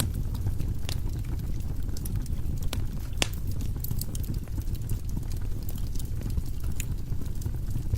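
Firewood burning in a fireplace: a steady low rumble of flame with scattered sharp crackles and pops from the logs, the loudest pop about three seconds in.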